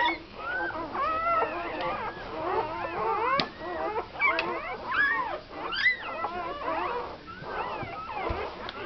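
A litter of day-old American Staffordshire Terrier puppies squeaking and whining, with many short high cries rising and falling and overlapping one another without a break.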